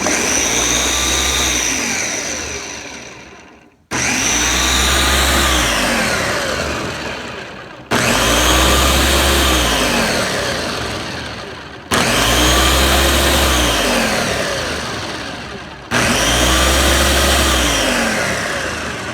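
Countertop blender crushing frozen pineapple, frozen strawberries and banana into a smoothie, run in five pulses about four seconds apart. Each pulse starts suddenly, the motor pitch rises then falls, and it fades off before the next.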